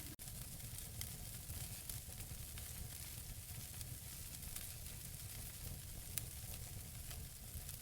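Wood logs burning in a fireplace: a steady low rush of flame with frequent small crackles, and one sharper pop about six seconds in.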